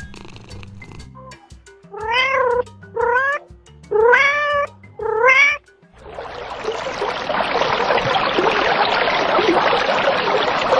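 A domestic cat meows four times in quick succession, each meow rising and then falling in pitch. About six seconds in, a loud steady rushing noise takes over, over quiet background music.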